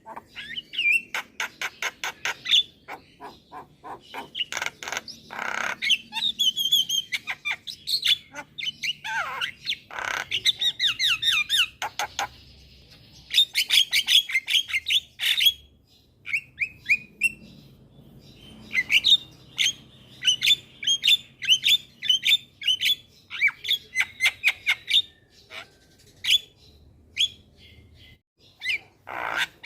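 Javan myna song: a rapid, varied chatter of harsh squawks, clicks and short whistled chirps, with a short lull in the middle.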